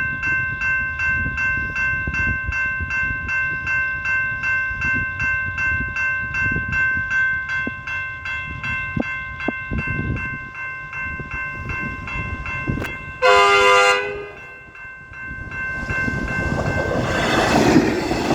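Level crossing bells ringing in a steady rapid pulse. About 13 seconds in, the Frankston Doodlebug diesel railcar gives one short horn blast. Then comes the growing rush of the railcar passing the crossing at speed.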